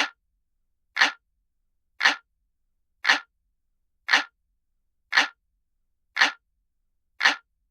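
Looped sound of a ticking analog clock: one sharp tick about every second, with silence between the ticks.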